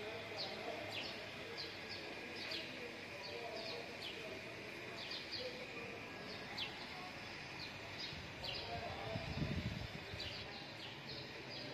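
Small birds chirping, short high chirps repeating about once or twice a second over low background noise, with a brief low rumble about nine seconds in.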